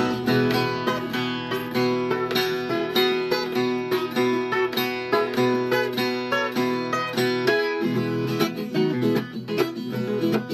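Viola caipira, the Brazilian ten-string folk guitar, played solo: a quick run of plucked and strummed notes with a steady bass between verses.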